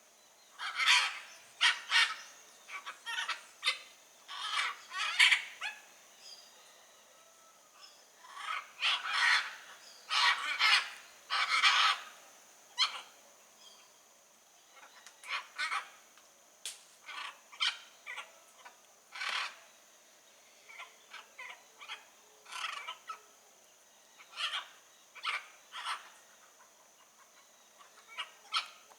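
Blue-and-yellow macaw squawking: short, harsh calls in clusters separated by pauses, loudest in the first half.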